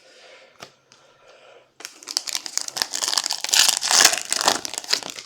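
Trading card pack wrapper being torn open and crumpled: faint rustling at first, then about three seconds of loud, dense crinkling starting about two seconds in.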